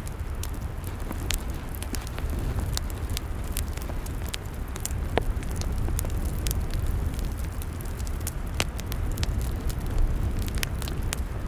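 Log fire crackling: frequent sharp pops and snaps, irregular in timing, over a low steady rumble.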